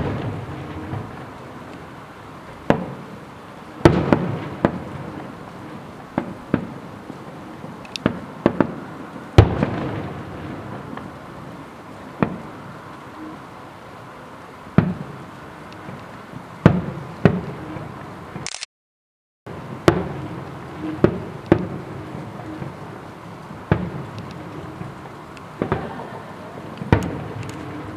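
Aerial fireworks exploding in an irregular series of sharp bangs, one every second or two, each trailing off in a short echo. The sound drops out briefly about two-thirds of the way through.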